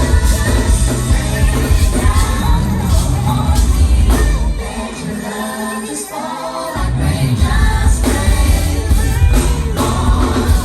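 Live R&B band performance with female vocals singing over a heavy bass and drums. The bass drops out about halfway through and comes back about two seconds later.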